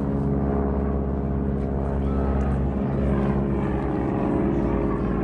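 Propeller airplane's engine droning steadily, a low drone made of many evenly spaced tones.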